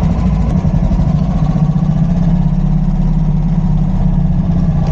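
Royal Enfield single-cylinder motorcycle engine idling steadily right after starting on a single kick.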